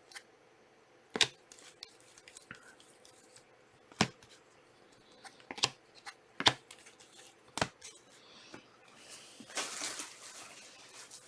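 Sharp taps and clicks of trading cards being handled and set down on a table, five spread over several seconds, then a short rustle of cards sliding near the end.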